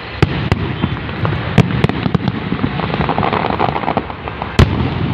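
Aerial fireworks display: shells bursting in quick succession over a constant crackle, with several sharp bangs, the loudest about four and a half seconds in.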